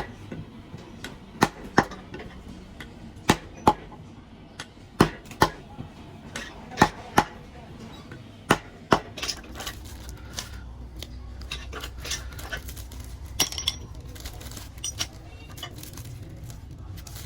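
Metal pieces clinking and knocking together in a series of sharp strikes, many in pairs about a third to half a second apart, over a low steady hum.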